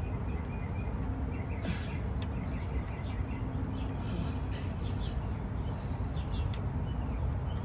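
Small birds chirping intermittently over a steady low rumble.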